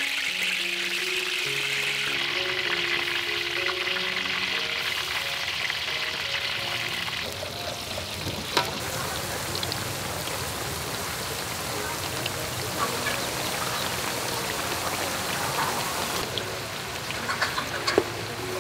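Breadfruit slices sizzling as they deep-fry in hot oil in a steel wok: a dense, steady hiss, strongest over the first several seconds, then softer. Light background music plays under the sizzle near the start, and a few sharp pops come about eight seconds in and near the end.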